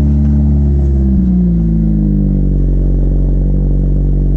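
A 2015 Chevy Colorado's 2.5-litre four-cylinder engine is running through a new aftermarket muffler exhaust. It is steady near idle, with a slight rise and fall in pitch in the first couple of seconds before it settles.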